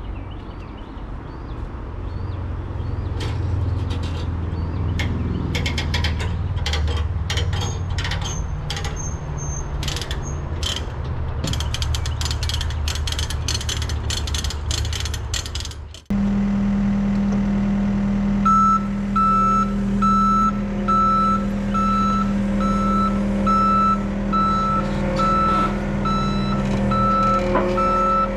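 Heavy equipment at work: an engine running under load with repeated metal clanks and knocks for the first half. Then a steady engine with a back-up alarm beeping about once a second as a machine reverses.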